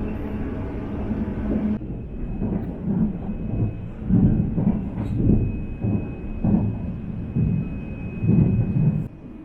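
Running noise of a CRH express commuter train at speed, heard from inside the carriage: a steady rumble and hum, then from about two seconds in a series of louder low rumbling surges about once a second, which drop away suddenly near the end.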